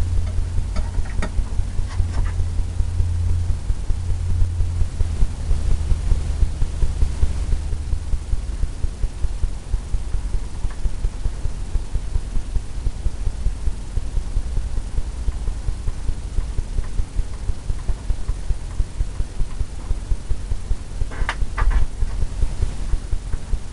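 A paint brush tapping quickly and evenly on a stretched canvas, laying in oil paint with short dabbing strokes, each tap a dull thud. A low hum runs under it and fades out about eight seconds in.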